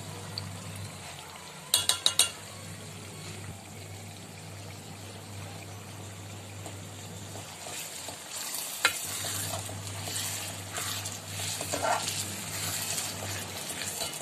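Mutton frying in an aluminium pot, sizzling as yogurt is stirred in with a metal ladle that scrapes the pot. A quick run of three sharp clatters comes about two seconds in. The stirring and sizzling grow louder from about eight seconds on.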